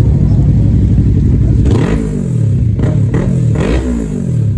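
Kawasaki ZX-10R's inline-four engine on its stock exhaust running steadily, then blipped three times from about two seconds in, each rev rising and dropping back.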